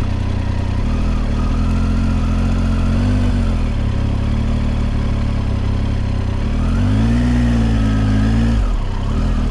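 Motorcycle engine running at low speed, its pitch rising and falling twice as the throttle is opened and eased off.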